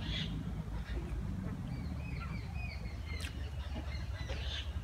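Birds chirping in a run of short, quick falling notes, over a steady low background rumble.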